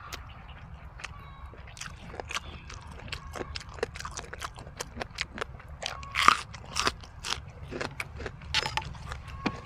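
Close-up chewing: irregular crisp crunches and wet mouth smacks from a man eating raw leafy greens with a jellyfish papaya salad. The crunches come several a second, the loudest about six seconds in.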